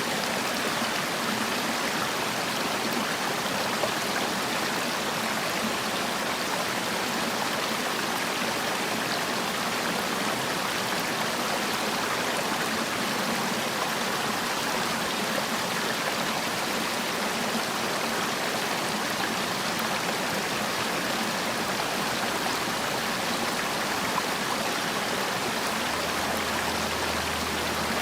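Mountain valley stream running: a steady, even rush of flowing water.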